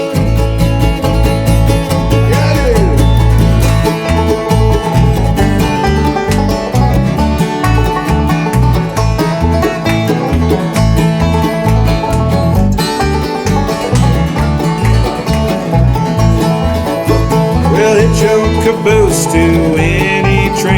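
Bluegrass band playing an instrumental intro: fast banjo picking and acoustic guitar over a stepping bass line.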